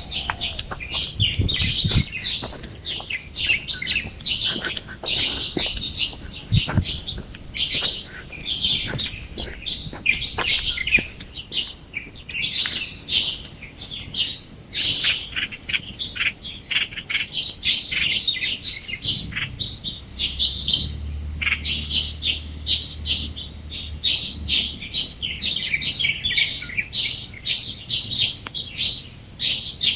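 Early-morning birdsong: many small birds chirping and twittering in rapid, overlapping short notes. A faint low hum runs underneath for a few seconds past the middle.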